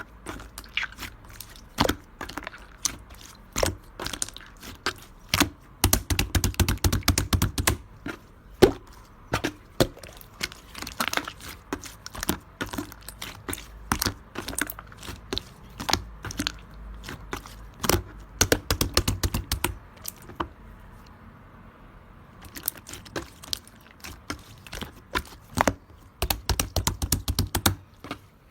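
Close crisp crackling and clicking, in dense runs lasting a second or two with sparser clicks between them. It thins out for about two seconds past the middle.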